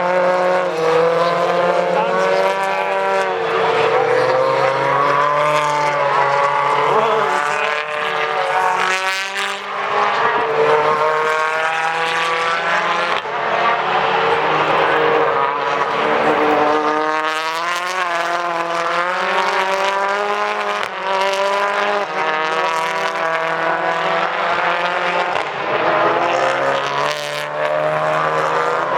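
British Touring Car Championship race cars at full speed on track, their 2.0-litre turbocharged four-cylinder engines revving up and down through gear changes, with several cars heard at once as they pass.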